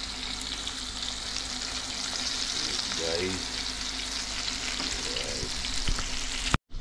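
Floured pieces of fish frying in hot oil in a pot: a steady sizzle that cuts off abruptly near the end.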